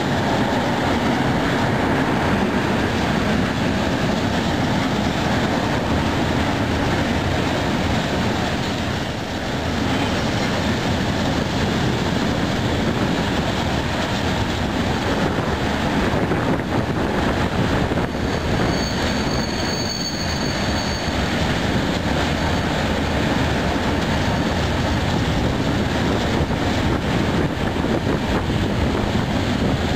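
Freight train of high-sided open wagons rolling past close by: a steady rumble and clatter of wheels on rail. About two-thirds of the way through, a brief high-pitched squeal from the wheels sounds over it.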